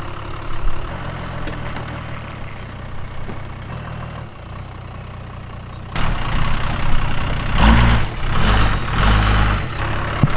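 Four-wheel-drive engine running at low revs as it tows a caravan slowly over a rough dirt track. About six seconds in the sound turns abruptly louder and rougher, with several heavy low rumbles.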